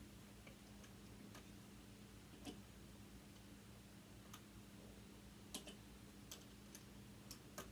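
Faint, irregular small clicks and taps, about ten, from metal parts and tools being handled while a sewing machine is dismantled, over a faint steady hum.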